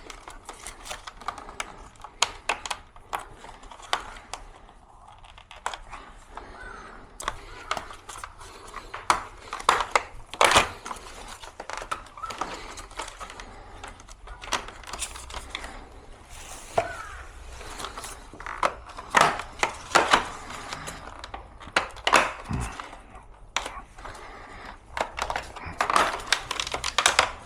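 Irregular clicks, knocks and rattles of the plastic casing and parts of an air conditioner being handled and taken apart, with some rustling between them.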